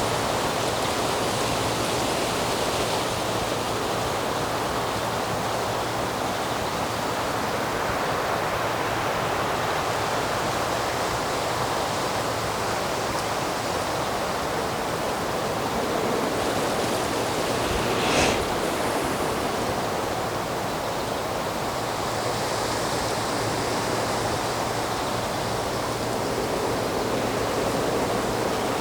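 Steady rushing outdoor ambience, an even hiss like moving air or running water, with no birdsong standing out. A single short click comes about eighteen seconds in.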